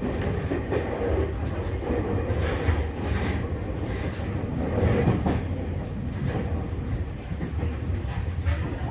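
Tokyu 3020 series electric train running at speed: a steady rumble of wheels on rail with occasional clacks over rail joints, heard from inside the front car.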